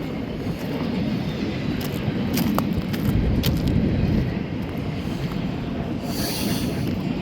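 The last cars of a double-stack container freight train rolling on past: a steady low rumble of wheels on rail, with a few sharp clicks and a brief thin squeal a couple of seconds in.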